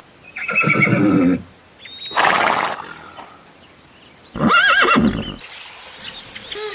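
Horse whinnying twice, with a short noisy burst between the two calls.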